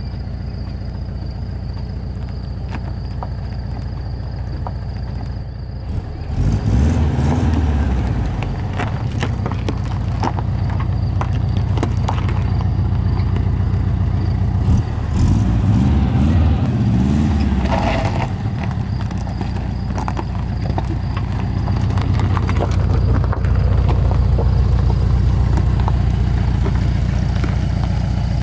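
Volkswagen Beetle's air-cooled flat-four engine running as the car drives over a rough gravel track, with stones crunching and clicking under the tyres. The engine grows louder twice, about six seconds in and again about fifteen seconds in.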